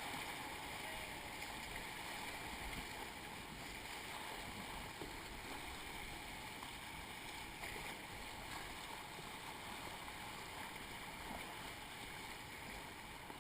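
Steady rushing of river rapids, heard fairly faintly and without change.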